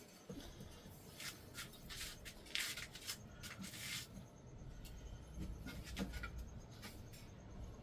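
Handling and scraping noises from working on a crab scoop: a run of scraping rubs and light clicks in the first half, then a low rumble comes in about halfway.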